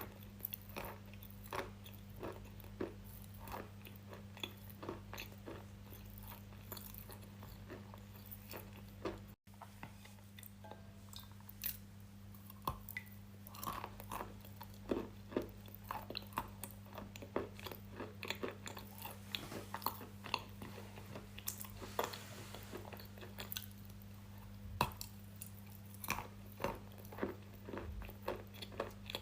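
Close-miked mouth sounds of biting and chewing something brittle: many sharp, irregular crunches and crackles, over a low steady hum.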